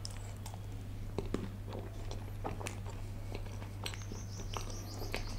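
Close-miked chewing of a mouthful of butter chicken: soft, irregular wet clicks and smacks from the mouth.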